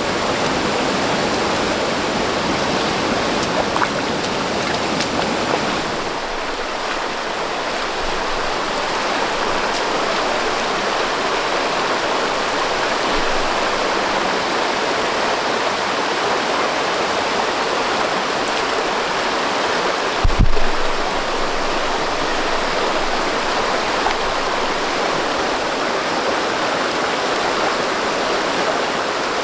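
Steady rushing of running water, like a stream, with a single low thump about two-thirds of the way through.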